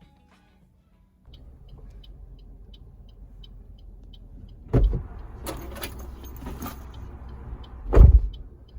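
Car engine running steadily, with a faint ticking chime about twice a second; a door thumps shut about five seconds in, and a louder car door slam comes near the end, a shut that did not latch properly.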